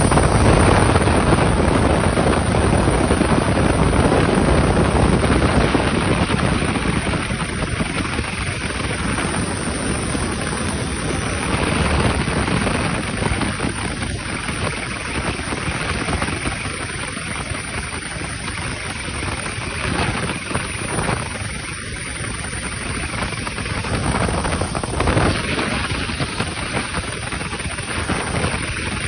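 Steady broad roar of jet aircraft engines, loudest in the first few seconds and then easing slightly, with brief swells along the way.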